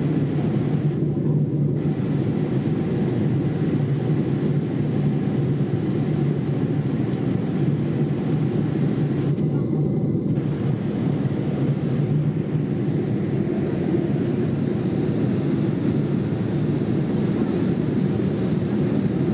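Steady low drone of a Boeing 787-8 cabin in flight: engine and airflow noise heard from inside the cabin, with a constant hum. The higher hiss briefly drops out twice.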